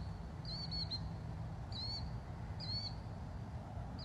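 A bird chirping: short, high chirps, four or five of them about a second apart, over a faint low steady rumble of background noise.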